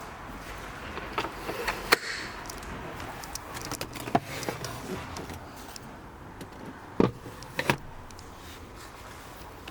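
Clicks and knocks of a Ford S-Max's doors and fittings being handled: a few sharp clicks about two seconds in and two heavier thumps near seven seconds, over a low steady background noise.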